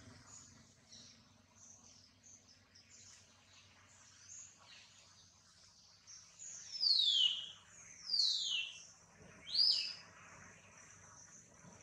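A bird calling three times: loud, clear whistles that each slide steeply down in pitch and last under a second, about a second and a half apart, starting past the middle. Softer short chirps come and go, over a faint steady high-pitched background tone.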